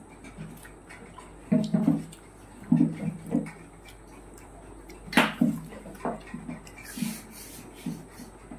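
Eating sounds of panipuri: chewing and crunching the fried puri shells with wet mouth sounds, in short irregular bursts, with one sharper crack about five seconds in.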